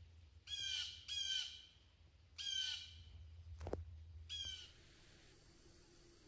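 A bird calling four times in short calls under half a second each, every call falling slightly in pitch; between the third and fourth comes a single sharp knock.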